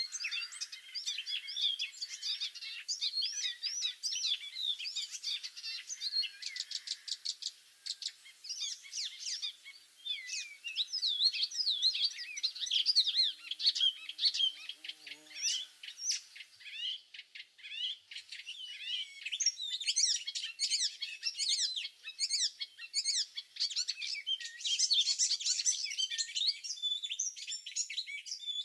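Several small songbirds singing and chirping over one another in a dense spring chorus, with quick warbled phrases and rapid trills.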